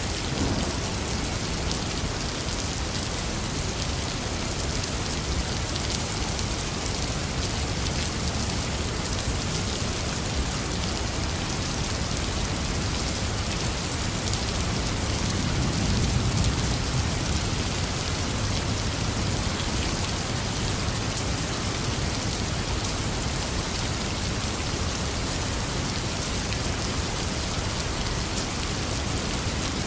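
Heavy rain falling steadily, with a low rumble of thunder swelling about halfway through.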